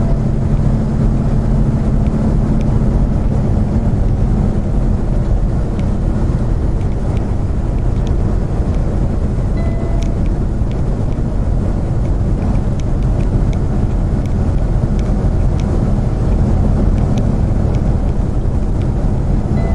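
Steady road and engine noise of a car driving at highway speed, with scattered faint ticks through the middle and a short faint beep about halfway.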